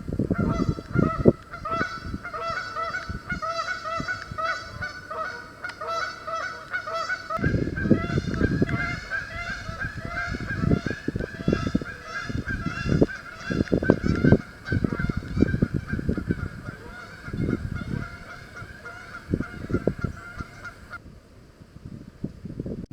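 A flock of geese honking continuously, many overlapping calls a second, stopping abruptly near the end. Irregular low rumbling bursts run underneath.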